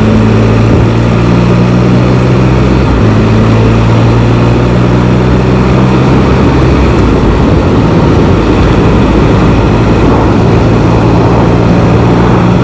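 Can-Am Spyder three-wheeled motorcycle's engine droning steadily while riding, its note shifting a few times, with wind rushing over the microphone.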